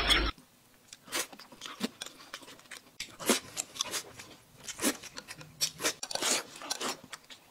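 Close-up chewing and wet mouth smacks of a man eating boiled dumplings, with scattered small clicks.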